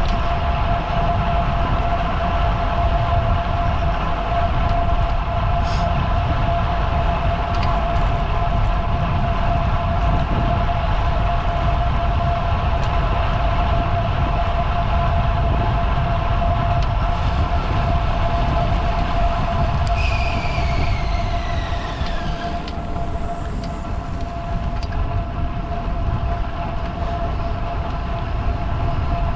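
Wind rumble on the microphone and road noise from a bicycle being ridden, with a steady high hum throughout and a whine that falls in pitch for a couple of seconds about two-thirds of the way through.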